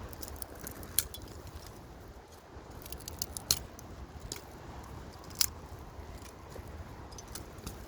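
Three sharp clicks or snaps about two seconds apart, with smaller ticks between them, over a low rumble.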